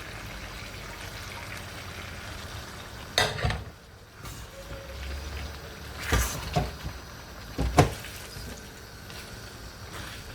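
Steady sizzle of food frying in a pan as vegetables are added, with about four sharp knocks of cookware, the loudest a little after the middle.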